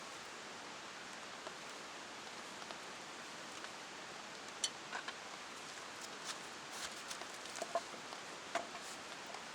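Steady hiss of heavy rain, with a scatter of short sharp clicks and ticks in the second half.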